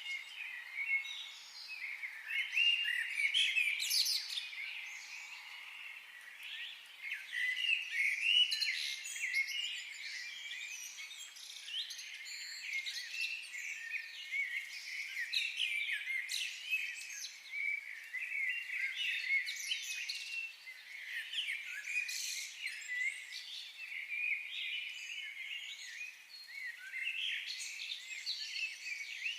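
Many birds chirping and singing at once: a dense, unbroken chorus of short, overlapping high calls and trills.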